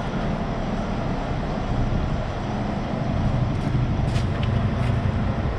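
Semi truck's diesel engine idling steadily, with a few faint clicks about four seconds in.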